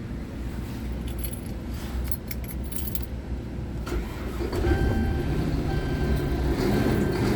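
Scania R truck engine running with a steady low rumble, and keys jangling about a second in. From about four and a half seconds the engine gets louder, and a high electronic beep repeats about once a second over it.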